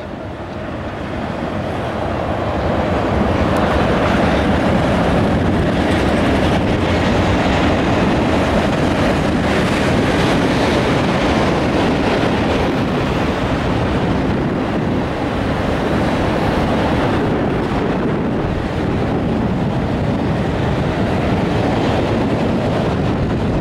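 Freight train of CSX autorack cars rolling past, the steady noise of steel wheels on rail. It grows louder over the first few seconds, then holds.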